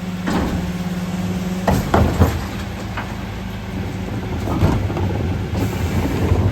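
Mercedes Econic refuse truck running, with a low rumble throughout. A steady hum stops about two seconds in, and several sharp clanks follow.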